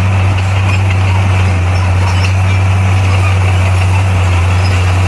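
Diesel engine of a heavy earthmoving machine running steadily, a constant low drone.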